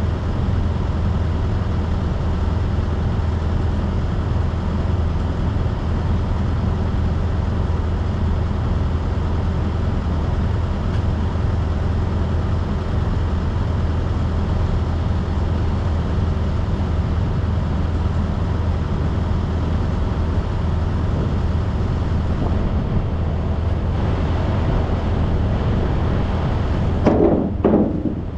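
Steady low drone of a semi-truck's engine and road noise, heard from inside the cab. A brief louder sound breaks in about a second before the end.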